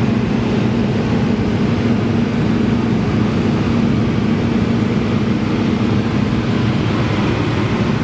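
Cessna 172's piston engine and propeller running at steady power, a constant low drone with no change in pitch.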